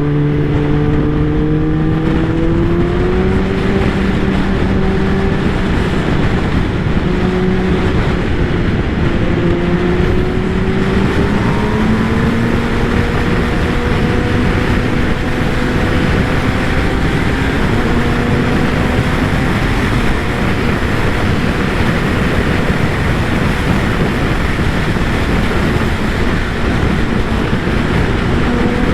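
Kawasaki ZX-10R's inline-four engine and exhaust under way, its note climbing slowly and stepping at gear changes, over heavy wind rush on the microphone.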